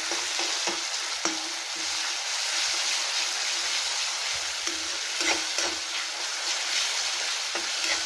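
Tomato paste and onions sizzling steadily in hot oil in a metal kadhai, with a steel spatula stirring and scraping against the pan in small clicks.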